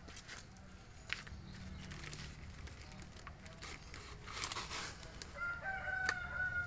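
A bird calling in a drawn-out, pitched call near the end, over scattered clicks and a brief rustle from someone moving among plant pots.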